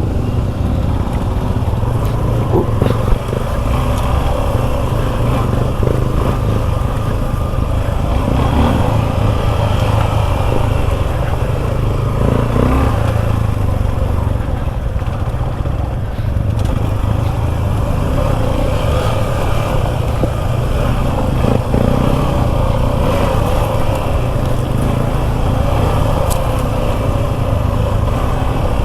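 Suzuki V-Strom 250 SX's single-cylinder engine running steadily as the bike is ridden, under a heavy low rumble.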